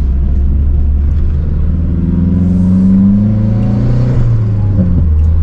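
Mazdaspeed 3's turbocharged 2.3-litre four-cylinder, fitted with an aftermarket intake, intercooler, cat-back exhaust and race pipe, heard from inside the cabin while driving. The engine pitch rises under acceleration from about two seconds in and falls away after about four seconds as the throttle comes off.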